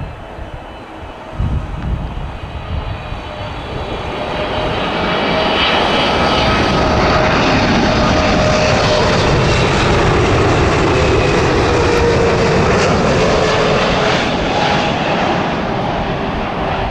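A Boeing widebody jet airliner on landing approach passes the microphone. Its engine noise builds over a few seconds to a loud, steady rush, with whining tones slowly falling in pitch as it goes by, then eases slightly near the end.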